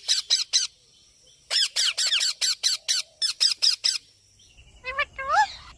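Parrot giving a rapid run of short, harsh squawks: four at first, then about a dozen after a short pause. Near the end come a couple of notes that glide upward.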